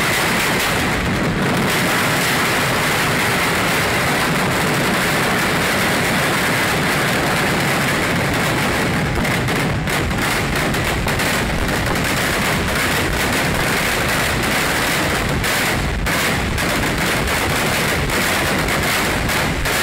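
Massed festival fireworks going off in a rapid, continuous barrage, the bursts overlapping into one unbroken crackle.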